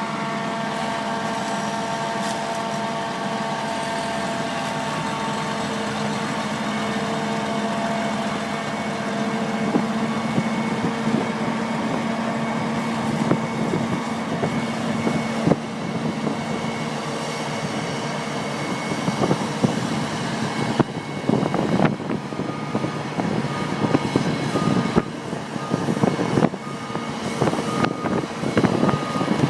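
Tractor engine running steadily at first, then louder and rougher, with irregular knocks and clanks. In the last few seconds a short beep repeats about once a second.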